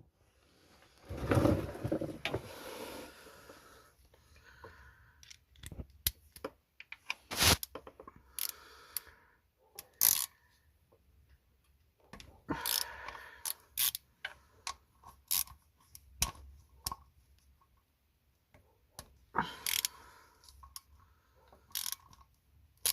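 Hand tools working the mounting bolts of a Smart 451's clutch actuator: scattered sharp metallic clicks and short scraping bursts with quiet gaps between them, the loudest about a second in.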